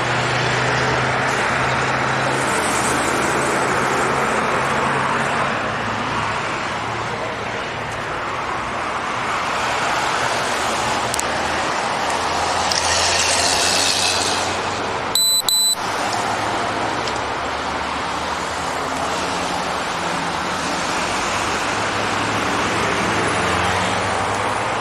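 Steady highway traffic noise, with a vehicle swelling past about thirteen seconds in. A little after, the background cuts out for under a second under a thin, high electronic tone.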